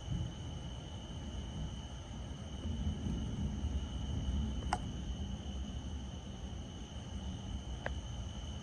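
Distant thunder rumbling low and steady, swelling a few seconds in, over a steady high-pitched tone; two short clicks near the middle and near the end.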